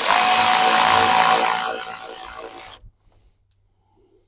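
Power drill running for about two and a half seconds with a steady whine, then trailing off and stopping.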